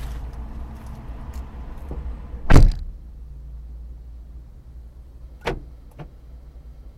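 Car's front suspension knocking: one loud thump about two and a half seconds in and two lighter knocks near the end, over the low rumble of the car. This is the front-suspension knock that shows up when turning.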